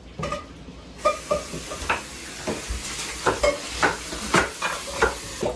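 Cold tap water running over freshly drained, blanched broccoli in the sink to stop it cooking, with a series of short clinks and knocks of cookware.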